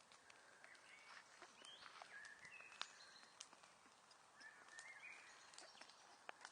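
Wood fire crackling faintly, with scattered sharp pops and one louder snap about three seconds in. Short high tones that rise and fall come in twice, about two seconds in and again near five seconds.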